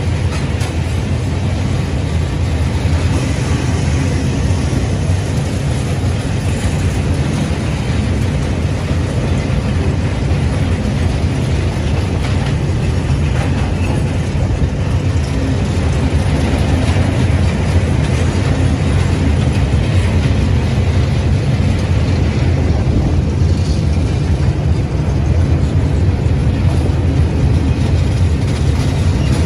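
Steady rumble of railway running noise as a long train of oil tank wagons passes close alongside on the next track: wheels on the rails, with no horn or clear clickety-clack beat.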